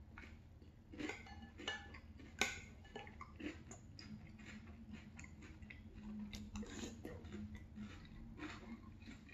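Crunchy French Toast Crunch cereal in milk being chewed, mixed with a spoon scooping and clicking against a glass bowl; one sharper click stands out about two and a half seconds in.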